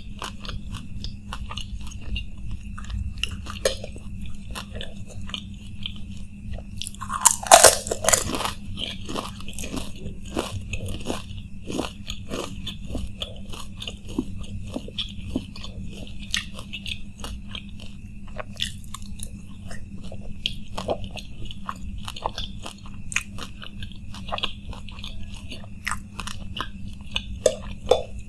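Close-up chewing and crunching of dahi puri, crisp puri shells filled with yogurt and topped with crunchy sev, in many small crackles. A louder crunchy bite comes about seven to eight seconds in.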